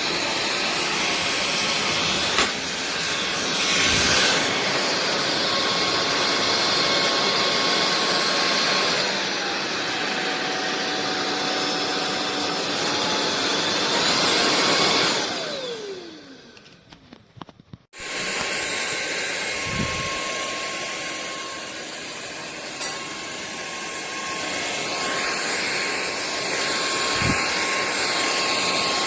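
Sulean X8 cordless stick vacuum running with a steady motor whine; its pitch drops for a few seconds and then comes back. About halfway through, the motor is switched off and winds down with a falling whine, then starts again abruptly about two seconds later and runs on steadily.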